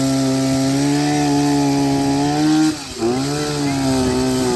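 Chainsaw engine running at steady high revs, cutting through a fallen tree. About three seconds in, the revs drop briefly, then climb back up.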